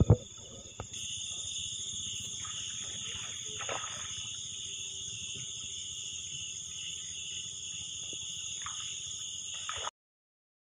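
Night insects chorusing, with a dense steady high-pitched trill that swells about a second in. A sharp knock comes right at the start, and the sound cuts off abruptly near the end.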